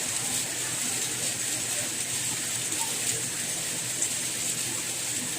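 Steady rain falling, an even hiss with faint scattered patter and no individual drops standing out.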